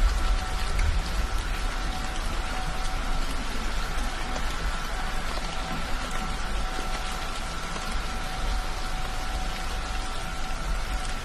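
Heavy rain pattering steadily on a car's roof, heard from inside the car.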